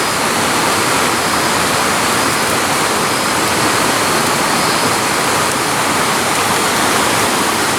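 Steady rushing water of a stream or waterfall, a loud, even hiss with no break.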